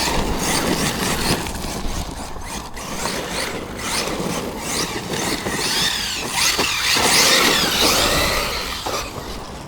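Brushless electric RC monster truck driven at full throttle over dirt, with tyre and gravel noise throughout. The motor's high whine rises and falls a few times past the middle as the throttle is worked through a turn.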